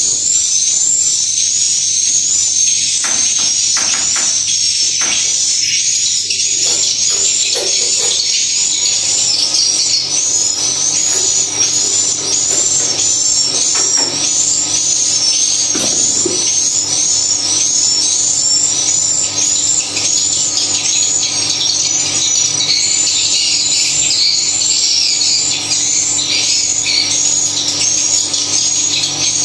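Swiftlet calls: a fast, evenly repeating high-pitched chirping twitter, with a steady low hum beneath.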